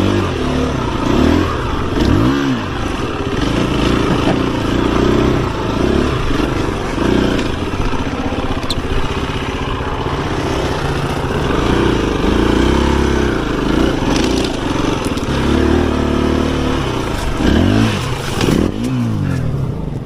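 Husqvarna FE 350 s dirt bike's single-cylinder four-stroke engine running loud, its revs climbing and dropping again and again under changing throttle.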